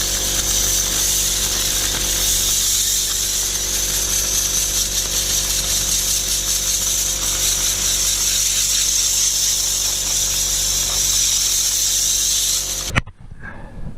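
Compressed air hissing steadily as it blows dirt out of a tractor's radiator cores, with a steady hum beneath it; the blast cuts off suddenly near the end.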